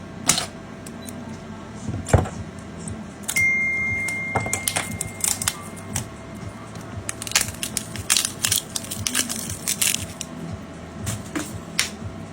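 Irregular sharp clicks and taps of tools and hands on a phone under repair. A steady high tone starts a little after three seconds in and fades out over about three seconds.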